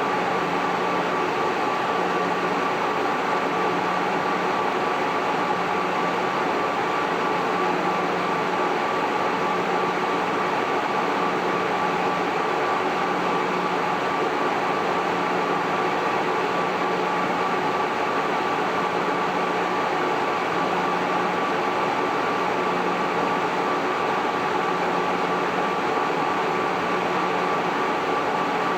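Cooling fans of an MJ Research PTC-225 DNA Engine Tetrad Peltier thermal cycler running: a steady whooshing hum with a constant whine.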